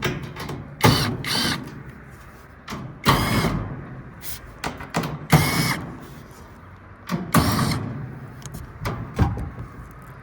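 Power drill run in about four short bursts while the condenser fan motor is being taken off, with metallic clicks and knocks in between.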